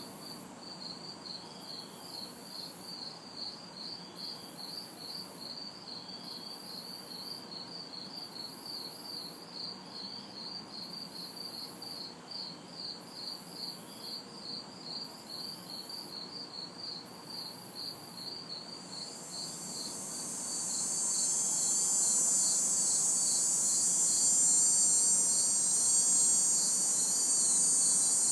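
Night chorus of crickets chirping in a steady rhythm, with a higher pulsing insect trill above them. About two-thirds of the way through, a loud cicada buzz swells in and holds. A faint distant traffic hum lies underneath.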